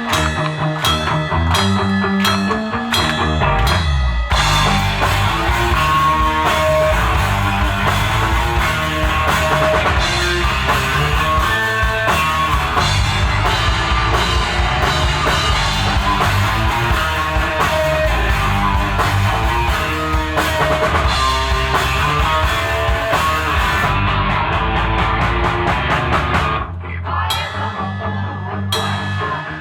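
Alternative rock band playing live: a sparse opening with evenly spaced hits, then the full band with drum kit and guitars coming in about four seconds in, thinning back to a sparser part near the end.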